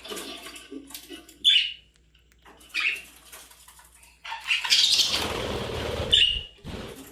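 Pet budgerigar (parakeet) giving a few short, sharp chirps, with a louder noisy burst of rustling or flapping in the second half.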